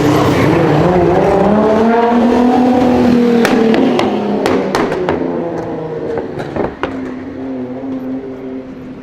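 Nissan GT-R R35's twin-turbo V6 revving hard, its pitch climbing for about three seconds, then a quick string of sharp cracks and pops as the revs drop. After that the engine note falls lower and fades away.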